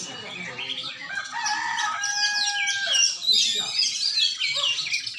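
Many caged songbirds singing at once in a chorus of fast, overlapping whistles and trills. A long, held call with a lower pitch runs underneath from about one to three seconds in.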